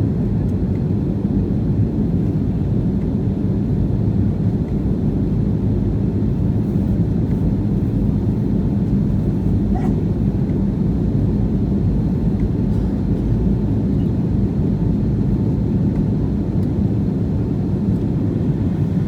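Steady low roar of a jet airliner's engines and airflow heard inside the passenger cabin during the climb after take-off.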